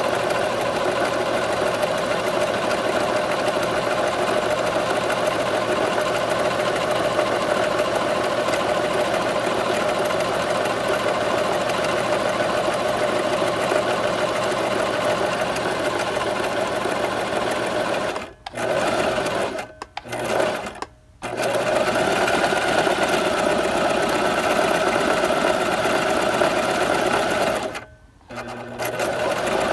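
Sewing machine running steadily. After about eighteen seconds it stops and restarts three times in quick succession, and it pauses once more near the end.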